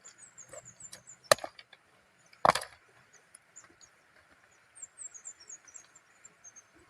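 Two sharp knocks of something hard being struck, the second, about a second after the first, the louder, among softer small clicks and taps. Runs of high chirps stepping down in pitch sound near the start and again in the second half.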